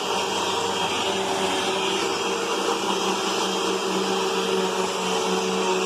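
Hoover UH71250 Whole House Rewind upright vacuum cleaner running steadily: a constant motor hum with an even rush of air.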